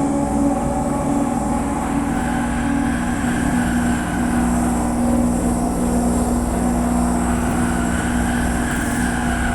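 Harsh noise music: a loud, unbroken wall of mangled, rumbling noise with a steady low drone held underneath.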